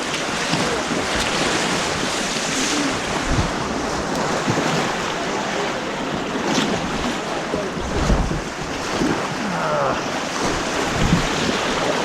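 Steady rush of white water around a kayak on an artificial white-water course, with wind and water buffeting the microphone and a few low thuds.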